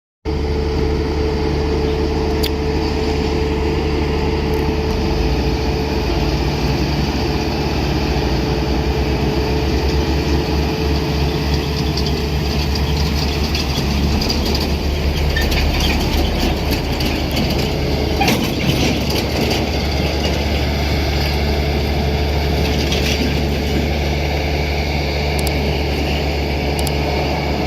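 Steady mechanical running of RC toy construction vehicles: small electric motors and gears humming, with scattered clicks and rattles that are busiest about two-thirds of the way through.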